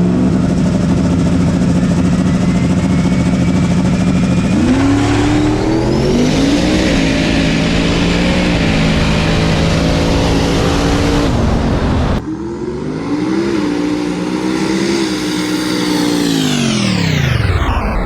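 Race car engines at full throttle: one engine holds steady high revs, then climbs in pitch in steps as it runs through the gears. After a sudden change, another engine note rises and then drops steeply in pitch near the end as a car passes by.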